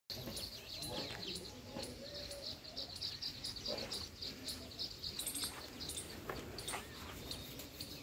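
Small birds chirping over and over in short, high-pitched notes throughout.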